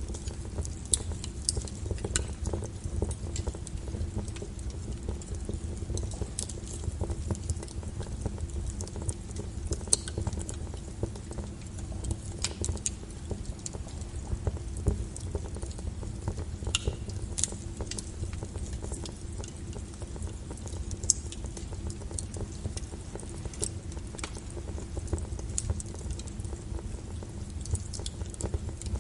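Wood fire in a fireplace crackling: irregular sharp pops and snaps over a steady low rumble of the burning.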